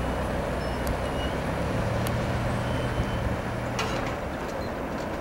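Freight train's tank cars and covered hoppers rolling along the rails, a steady rumble with a few sharp clicks from the wheels. A low engine hum rises under it for a couple of seconds in the middle.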